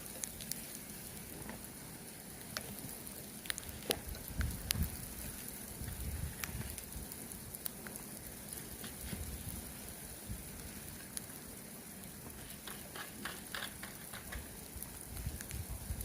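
Broom brushing snow off a car: scattered scratchy crackles and light taps over a steady hiss, with low rumbles about four to seven seconds in.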